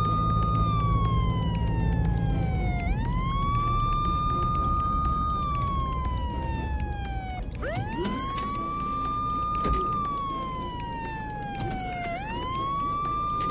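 Police siren wailing: each cycle rises quickly, holds, then falls slowly, repeating about every four and a half seconds, three times. Under it is a low rumble that fades after about three seconds.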